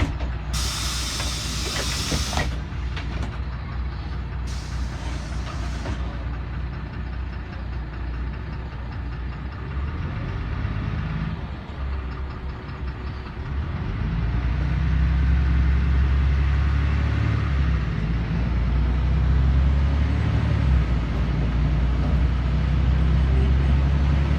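Inside a LiAZ 5292.21 low-floor city bus: two sharp bursts of compressed-air hiss from the bus's pneumatics in the first few seconds, over the diesel engine's low drone. About fourteen seconds in the engine grows louder and stays up as the bus pulls away under power.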